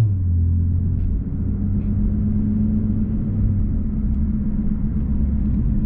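Infiniti Q50's V6 with resonated lower downpipes, heard from inside the cabin while driving: a steady low exhaust drone that drops slightly in pitch as it begins, then holds an even cruise note.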